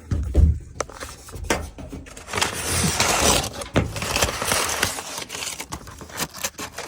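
Paper rustling and crinkling as it is pulled out of a gas furnace cabinet, mixed with knocks and scrapes of handling against the unit.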